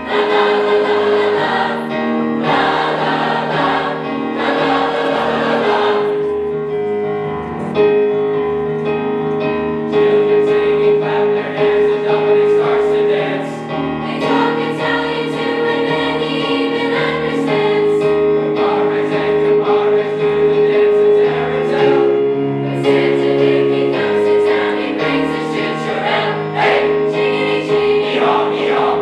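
Choir singing with instrumental accompaniment over a steady beat.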